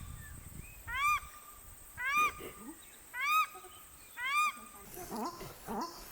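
Paradise shelduck calling repeatedly, about one high-pitched call a second, each call rising then falling in pitch. Near the end come a few shorter, lower calls that slide upward.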